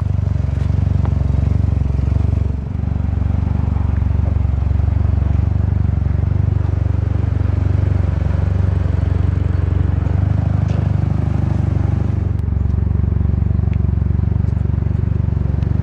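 2008 Mitsubishi Lancer Evolution GSR's turbocharged 2-litre four-cylinder engine idling steadily, a low, even hum.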